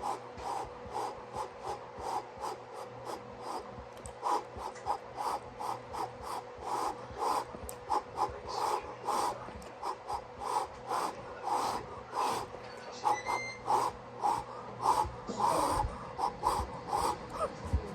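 A person chewing food close to the microphone, a quick regular run of wet mouth sounds about two to three a second, over a faint steady electrical hum.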